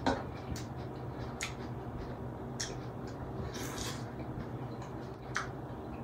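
A person chewing chicken with wet mouth smacks and clicks, about one every second, irregularly spaced, over a steady low hum.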